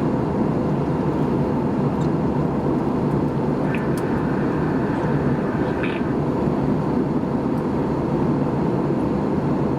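Steady cabin noise of an Airbus A320 airliner in descent: the even rumble of engines and airflow heard from inside the passenger cabin.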